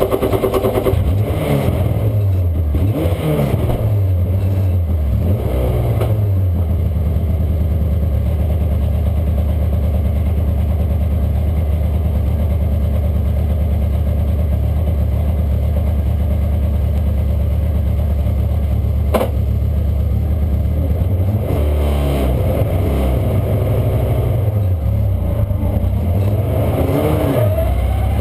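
BMW E90 Super2000 race car's two-litre four-cylinder engine heard from inside the cabin: several quick blips of the throttle in the first few seconds, a steady idle, then more revving near the end as the car moves off. One sharp click about two-thirds of the way through.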